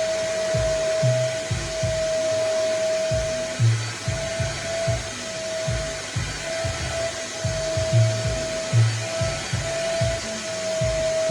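Nunix wet and dry vacuum cleaner running steadily: a constant whine over rushing air, with irregular low thumps underneath.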